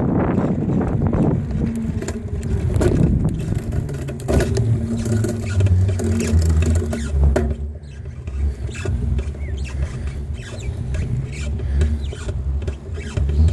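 Bicycle riding along a path: steady tyre rumble and hum with rattling and squeaking from the bike, and wind on the microphone in the first second or so.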